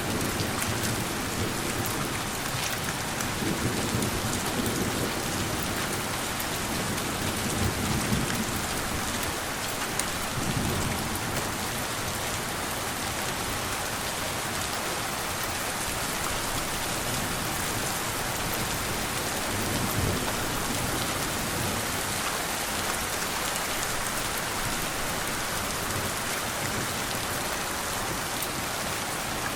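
Steady rain falling, an even hiss of drops, with soft low thunder rumbles swelling and fading several times.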